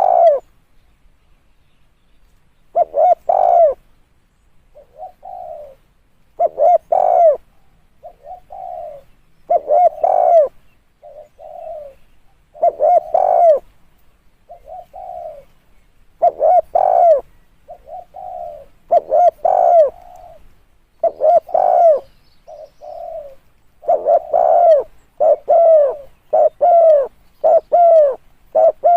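Spotted dove cooing: repeated short phrases of low coos every few seconds, louder phrases alternating with softer ones, coming closer together near the end.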